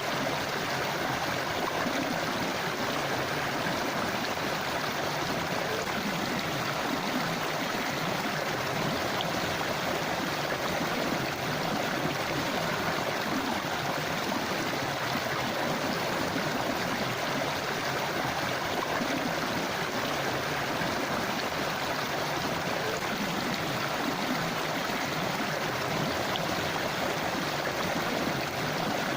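River water flowing steadily over rocks, an even, unbroken rushing.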